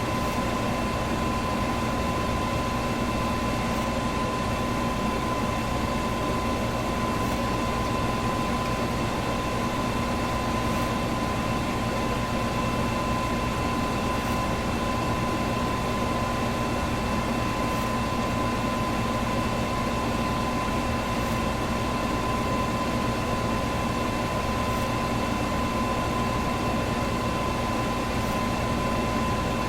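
Electric fan running steadily: a constant airy rush with a steady hum and whine from the motor, and faint light ticks about every three and a half seconds.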